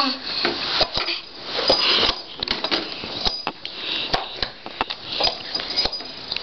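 A small child's breathy sniffing and puffing, with scattered sharp clicks and taps.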